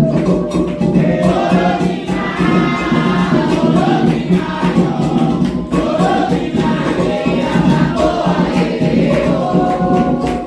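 Candomblé sacred chant: a group of voices singing over steady atabaque hand-drumming with a light rattling percussion, the drums playing the rum rhythm for Oxumaré and Oxum.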